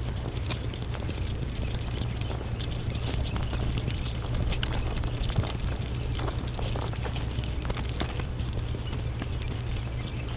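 Close-miked eating sounds sped up to five times normal speed: a dense, rapid patter of chewing and mouth clicks, over a steady low hum.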